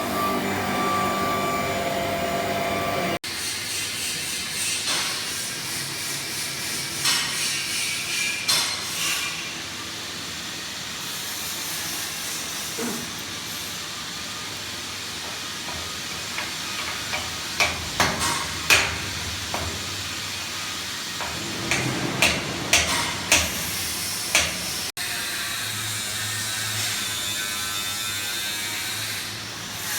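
PVC flexible duct forming machine running: a steady mechanical noise with a hiss. The sound changes abruptly about three seconds in and again about 25 seconds in. A run of sharp clicks and knocks comes between about 17 and 24 seconds in.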